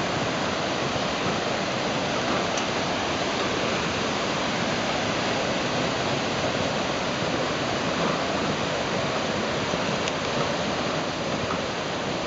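Floodwater rushing steadily down a drainage channel: runoff from a severely burned, bare watershed in flash flood, about 1.5 to 2 feet deep.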